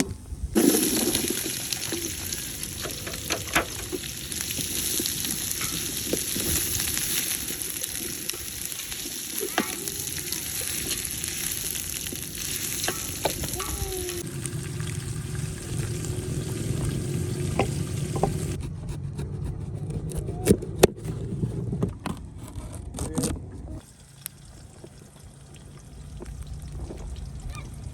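Food sizzling as it fries in oil in a cooking pot, with clicks and knocks of a utensil stirring it. About halfway through the sizzle drops away, followed by a run of sharp clicks and a quieter stretch.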